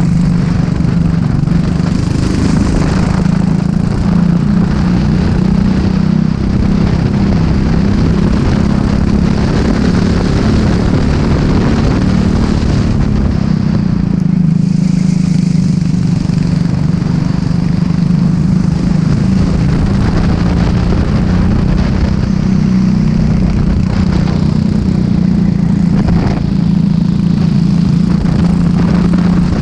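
Racing kart engine running hard at speed, with wind and chassis noise.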